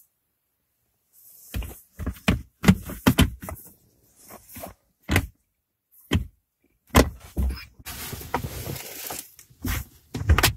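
Hands working a plastic truck console cupholder pad: a string of irregular knocks and clicks, with a stretch of scraping or rustling about eight seconds in.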